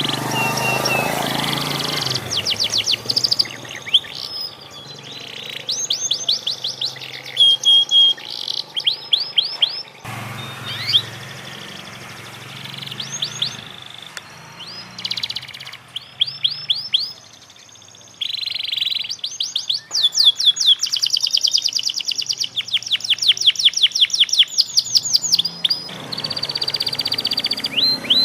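Canary singing: bursts of fast, high trills made of quick downward-sweeping notes, with short pauses between phrases and a long, loud trill in the last third. It is a young canary learning its song.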